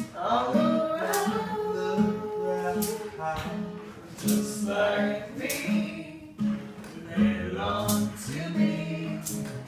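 Singing of a slow pop ballad to acoustic guitar, the guitar plucked or strummed in a steady rhythm under the voice.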